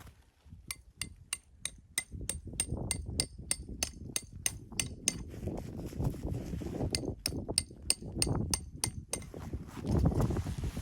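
Quick, evenly spaced metallic hammer blows, about three a second, with a short pause around the middle, over a low rumbling noise.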